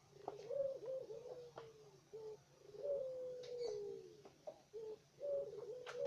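Puter dove (collared dove) cooing repeatedly in a series of low calls that slide down in pitch.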